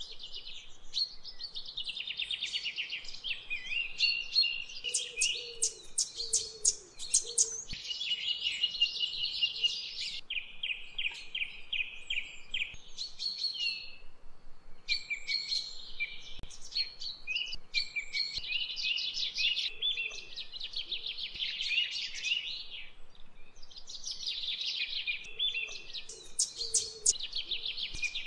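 Small birds chirping and twittering, rapid chirps and trills overlapping almost without pause.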